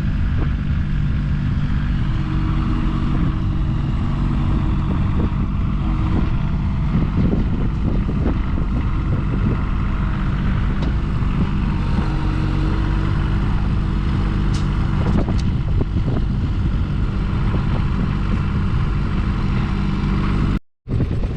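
An engine running steadily at an even speed, cutting out for a moment near the end.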